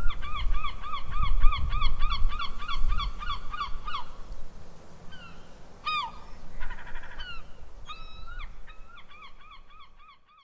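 Birds calling: a quick run of repeated calls, about three a second, then a few scattered calls, then another quick run near the end, with a low rumble underneath at the start. It all fades out at the end.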